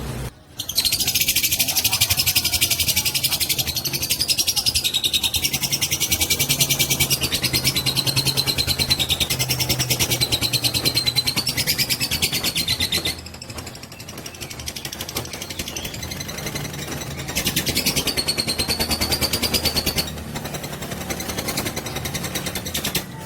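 Fighter-type lovebird in a long 'ngekek': a very fast, high chattering trill kept up for many seconds without a break. It is the kind of song played as a lure to set other lovebirds singing. It weakens for a few seconds about halfway through, then comes back strongly before easing again near the end.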